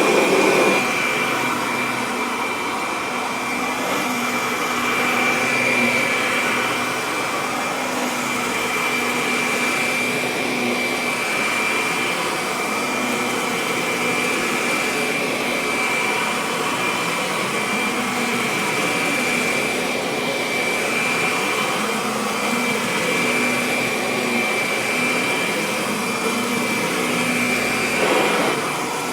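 Kirby Avalir upright vacuum cleaner running steadily, a constant high whine over the rush of motor and air, with small swells in loudness near the start and near the end.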